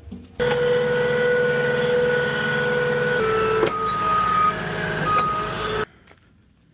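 Truck engine running steadily with a held hum, stepping slightly lower in pitch about three seconds in. It starts and cuts off abruptly.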